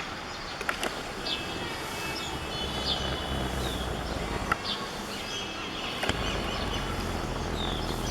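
Birds giving short, high, falling chirps every second or so over steady outdoor background noise. There are a few sharp clicks, and a low rumble comes in about six seconds in.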